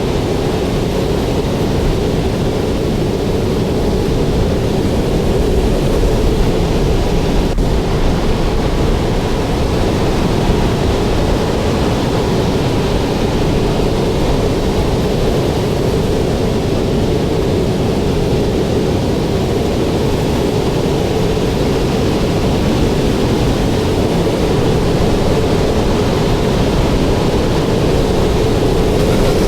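Loud, steady roar of strong storm wind, with a constant droning pitch running underneath.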